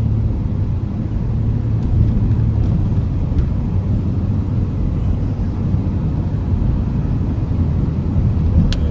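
Steady low rumble of a vehicle being driven on wet roads, heard from inside the cabin, with a few faint clicks and one sharper click near the end.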